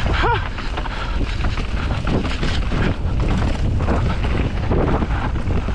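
Wind rushing over the camera microphone on a fast mountain bike descent, with tyres on dirt and the bike rattling over bumps. A brief squeal just after the start.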